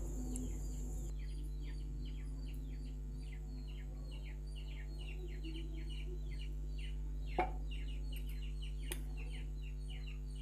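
Birds chirping over and over from about a second in, a quick run of short falling chirps, several a second, over a steady low hum. A single light knock sounds about seven seconds in.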